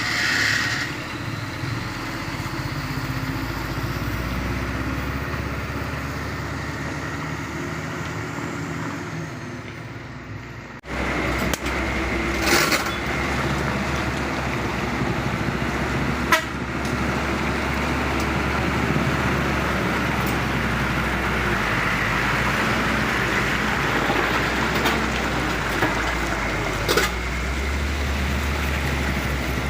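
Heavy diesel trucks running and passing on a road, with steady engine and tyre noise. The sound breaks off abruptly about eleven seconds in and resumes at once, and a few short knocks or clicks come through later on.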